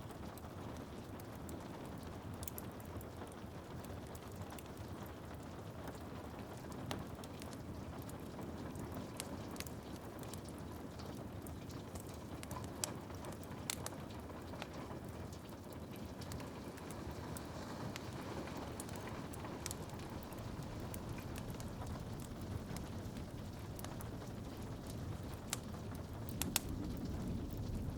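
Steady rain on a window glass, with scattered sharp pops and crackles from a wood fire burning in a fireplace.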